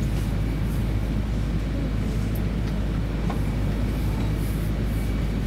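Steady low rumble and hum inside the passenger cabin of an E2 series Shinkansen moving slowly along a station platform.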